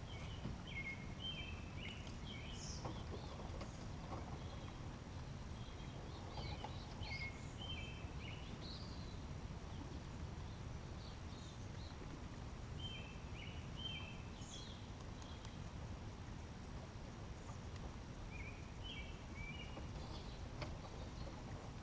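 Birds chirping in short clusters of quick high notes, several times over, against a steady low rumble of outdoor background noise.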